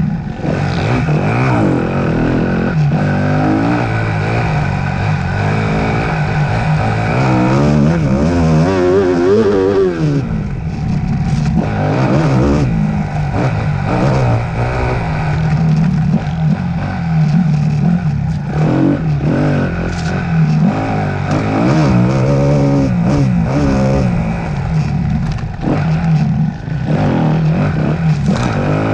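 Off-road motorcycle engine revving up and down again and again as it is ridden hard through the gears at race pace.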